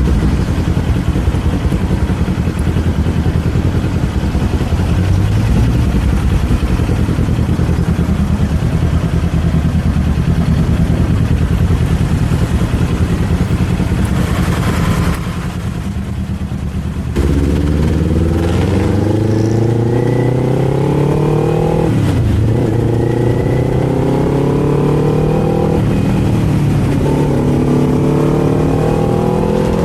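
Kawasaki Z400 parallel-twin engine running steadily at low revs. About halfway through, after a short quieter spell, it accelerates with rising revs, and the pitch drops back twice as it shifts up through the gears.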